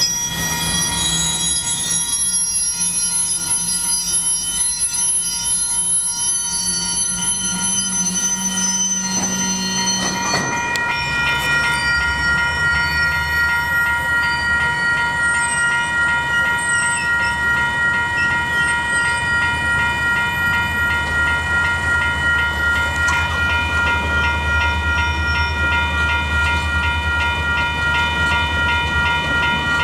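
Railroad crossing's electronic bells (Wayside WCH Type 1) ringing with a fast, steady repeating ding, alongside the low rumble of diesel locomotives reversing. A high-pitched wheel squeal in the first third fades as the bell and engine grow louder.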